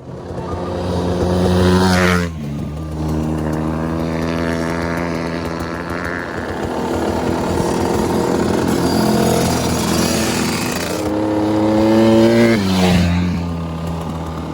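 Dirt bike engine under way, its revs climbing and then dropping sharply about two seconds in, holding fairly steady, then climbing and dropping again near the end.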